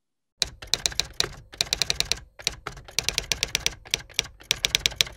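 Typewriter keys struck in quick runs, about eight clacks a second with brief pauses between runs, starting abruptly out of silence about half a second in.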